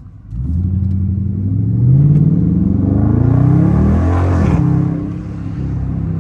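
Dodge Charger R/T's 5.7-litre HEMI V8 accelerating hard through an exhaust with the mid mufflers deleted. The engine note climbs for about four seconds, drops sharply at an upshift, then runs on lower and steadier.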